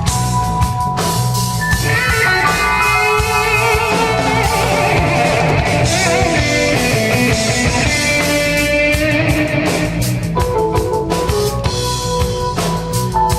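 A live jazz-fusion band with drum kit playing, with a melodic lead line that bends and wavers through the middle.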